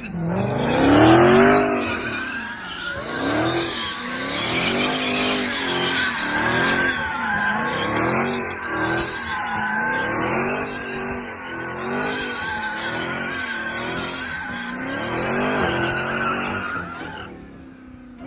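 Car drifting with its tyres squealing continuously while the engine is revved up and down over and over, about once a second; the sound fades away near the end.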